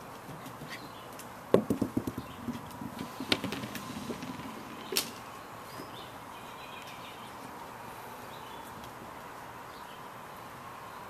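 Samoyed puppies playing, heard as a quick run of knocks and rattles from about one and a half to four and a half seconds in, then one sharp click; after that only a faint steady background.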